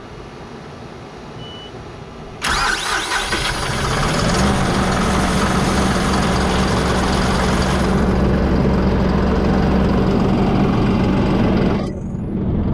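John Deere 5075E tractor's diesel engine being started: after a couple of seconds of quiet it cranks and catches suddenly, then settles into a steady idle.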